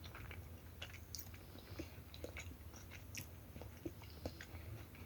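A person chewing a bite of deep-fried Oreo: faint, wet mouth clicks and smacks, scattered irregularly.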